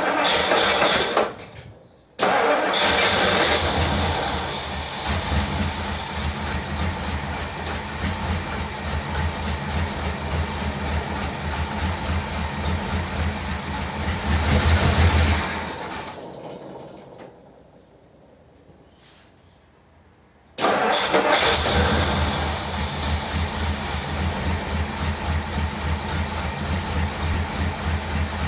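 1957 Ford Thunderbird's Y-block V8 starting and running on two barrels of its carburettor, fitted with a swapped metering plate. It runs steadily, revs up briefly, dies away, then is running again near the end.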